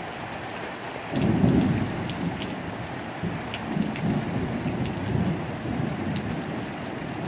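Steady rain falling with scattered drops ticking, and thunder that starts suddenly about a second in as a low rumble. It is loudest at first, then rolls on in several swells.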